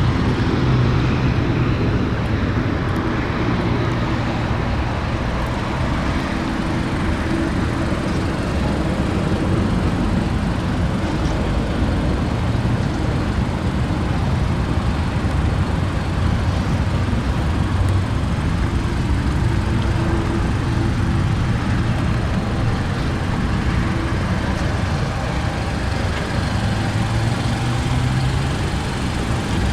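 A 2015 Mazda CX-5's 2.5-litre inline-four engine idling steadily, with a low even hum.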